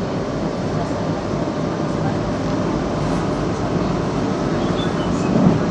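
Metrovalencia metro train running along the track, heard from inside the carriage as a steady rumble, with a brief louder bump near the end.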